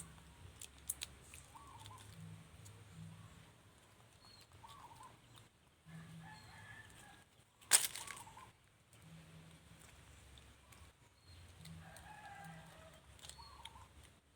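Faint animal calls, short wavering squeaks that recur every few seconds, with one sharp click about eight seconds in.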